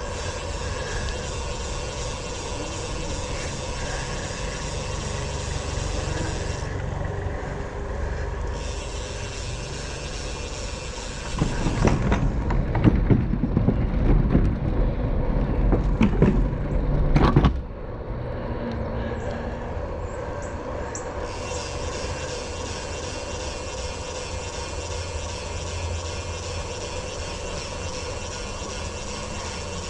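Riding noise from a hybrid bicycle rolling along a wet trail in the rain: steady tyre and road noise with a low rumble. From about twelve seconds in, for some six seconds, it turns louder, a heavy rumbling rattle with knocks, then drops back to the steady rolling noise.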